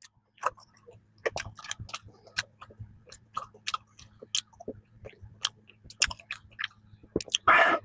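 Close-miked chewing of a soft cream bun filled with peanut cream: irregular wet mouth clicks and small crunches, several a second.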